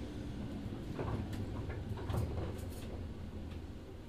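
Running noise heard inside a 103 series 1500-subseries electric train car: a steady low rumble of wheels on rail, with a few short clicks and knocks.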